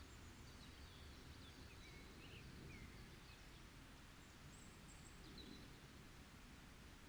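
Faint forest ambience: a low, even rumble with a few soft, scattered high bird chirps and short whistles, mostly in the first half and again a little past the middle.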